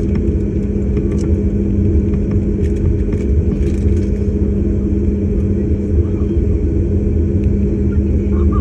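Aircraft engine drone heard inside the cabin: a loud, steady low rumble with a constant hum that does not rise or fall.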